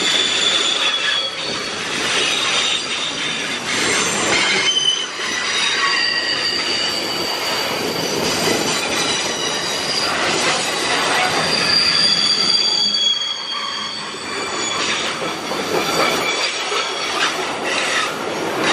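Freight train of loaded flatcars rolling past close by: a steady rumble and clatter of steel wheels on rail, with knocks at the rail joints and high wheel squeal that comes and goes, loudest around ten to thirteen seconds in.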